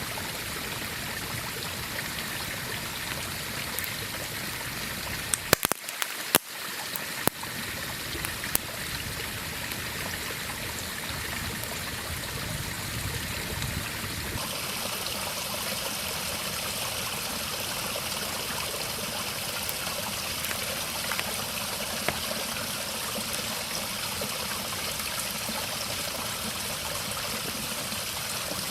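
River water flowing steadily, a constant rushing hiss that turns slightly brighter about halfway through. A few sharp clicks or knocks stand out about six seconds in.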